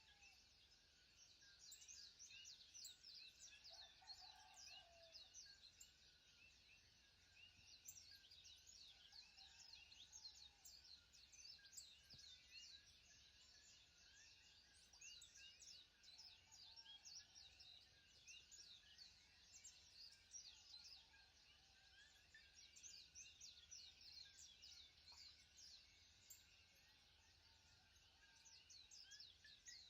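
Faint chorus of many small birds, a dense stream of quick high chirps, over a low steady hum.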